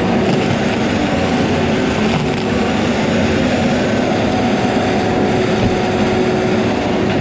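Heavy diesel machine engine running steadily, with a constant hum above the engine noise.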